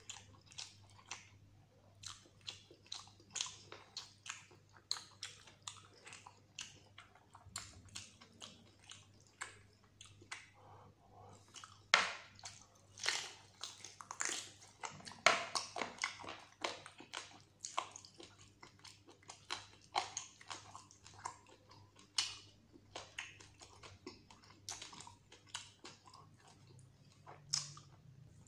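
Wet chewing and mouth sounds of a person eating mutton curry and rice by hand: an irregular run of short smacks and bites, with a few louder bites about midway as a mutton bone is gnawed.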